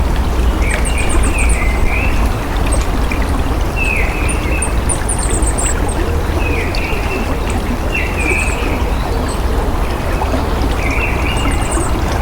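Flowing water running steadily with a deep rumble underneath, while birds call over it: short falling calls every second or two, and brief high trills now and then.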